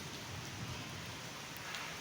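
Steady rain falling as an even hiss, with a single brief sharper patter near the end.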